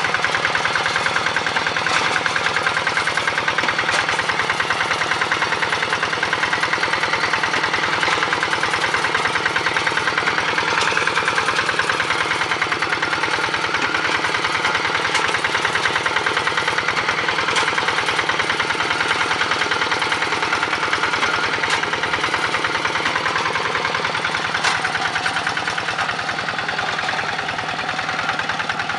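Walk-behind hand tractor's single-cylinder engine running steadily with a fast, even chugging, a few sharp clicks standing out now and then.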